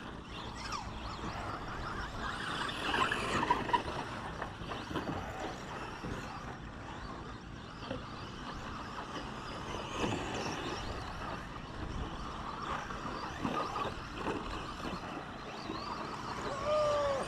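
Radio-controlled 2WD short course trucks racing around the track, a continuous mix of motor and tyre noise with brief rises and falls in motor pitch.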